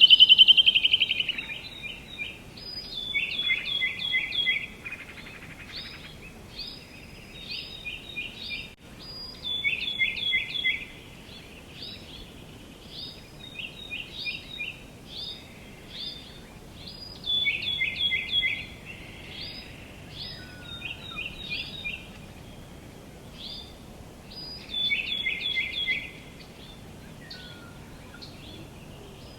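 Songbirds chirping and calling, with repeated phrases of quick, high notes. A louder phrase comes roughly every seven seconds, and softer chirps fall in between. A loud, held call opens the stretch.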